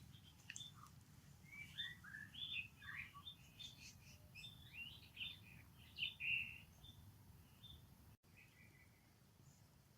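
A quick run of short, high-pitched animal chirps and squeaks over a faint low hum; the calls stop about eight seconds in.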